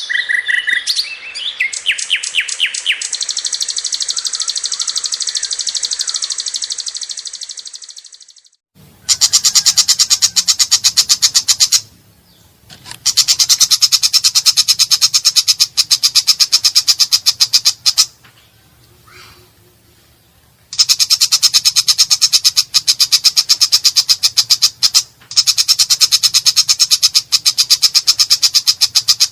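Long-tailed shrike (cendet) singing with a harsh, rough voice: long runs of very rapid, evenly repeated high notes, broken by a few short pauses, after a fading high trill at the start.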